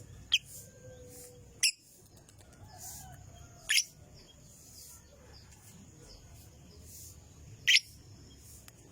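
Lovebird giving four sharp, shrill chirps, spaced one to four seconds apart, over softer high chirping repeated in the background: a lure call used to set other lovebirds singing.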